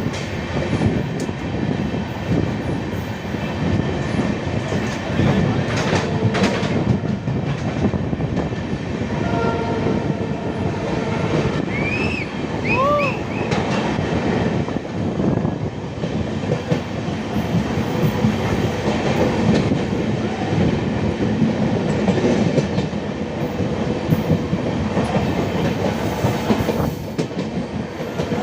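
Train running across the Pamban railway bridge: a steady rumble with wheels clattering over the rail joints, and a few short rising squeals about twelve seconds in.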